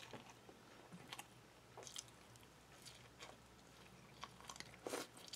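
A person chewing a mouthful of Spam with bacon: faint, scattered wet mouth clicks and smacks, the loudest near the end.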